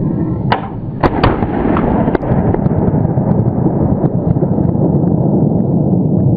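Three gunshots in quick succession about half a second to a second in, then a couple of fainter shots. Throughout there is heavy wind rumble on the microphone.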